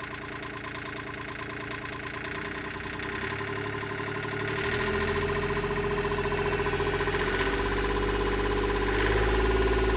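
Rebuilt Yanmar 3GM30F three-cylinder marine diesel engine running after its rebuild, growing louder about halfway through and again near the end.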